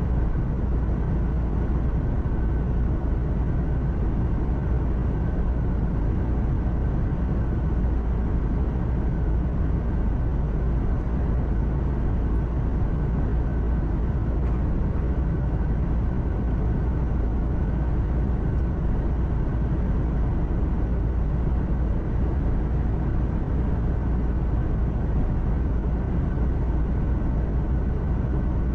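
Heavy truck driving along, heard from inside the cab: a steady engine hum and road rumble, strongest in the deep bass, with a faint steady whine above it.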